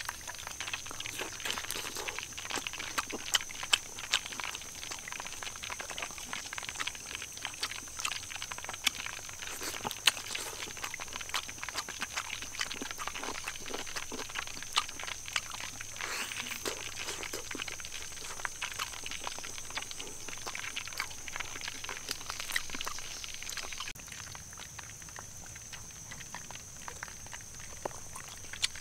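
Close-up eating of a crispy deep-fried chicken drumstick: continual wet chewing and smacking with crunchy crackles and a few sharper bites, over a steady high-pitched tone.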